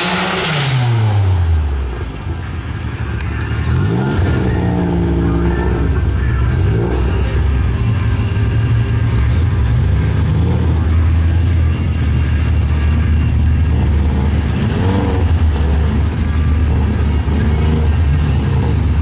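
Boosted Datsun 300ZX's engine coming down off the revs as its burnout tyre squeal ends, then idling, with several short throttle blips that rise and fall while the car stages at the drag strip's start line.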